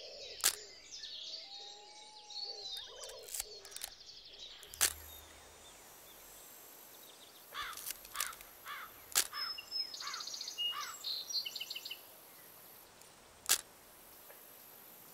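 Wild birds chirping and calling over a faint outdoor hiss, with a run of quick down-sweeping chirps and a short buzzy trill near the middle. A few sharp clicks are scattered through it.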